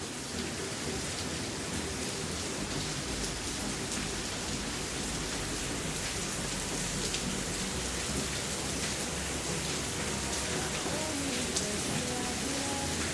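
Steady rain falling on a surface, an even hiss with scattered drop taps.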